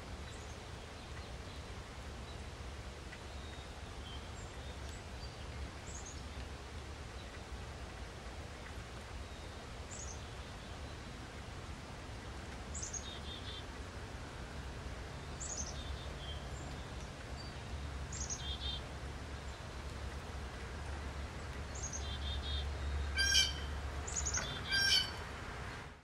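Wild birds calling outdoors: short high chirps that sweep downward, every couple of seconds, with two louder calls near the end. A low steady rumble runs underneath.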